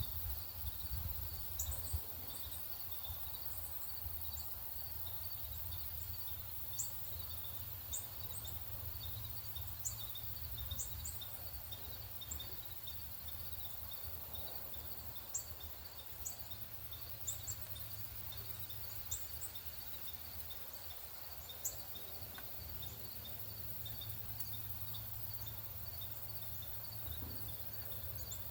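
Small songbirds giving scattered short, sharp high chip notes over a steady, rapid insect trill, with a low hum underneath.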